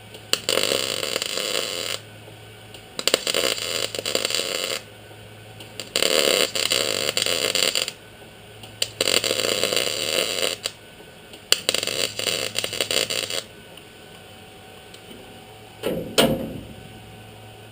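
MIG welder stitch-welding sheet-metal patch panels, crackling and sputtering in a series of short bursts of one to two seconds with brief pauses between them.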